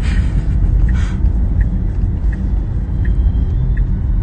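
Steady low rumble of road and tyre noise inside a moving Tesla's cabin, with faint regular ticks about every three quarters of a second.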